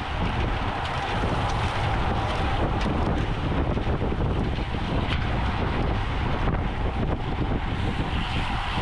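Steady wind noise buffeting the microphone of a camera on a racing bicycle at speed, a constant low rushing with faint ticks over it.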